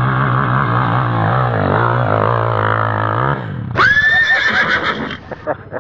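Off-road motorcycle engine running steadily, then stopping about three seconds in; right after, a loud high-pitched wavering cry lasting about a second.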